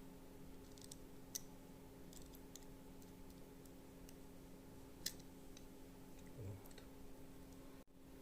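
Faint scattered clicks and taps, two of them sharper, from handling a small electrical plug while wire ends are fitted and tightened into it. A steady low hum runs underneath.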